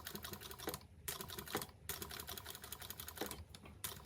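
Sewing machine stitching folded bias binding through a binder attachment around a curve, running in quick bursts of rapid stitch ticking with a few brief stops as the fabric is turned.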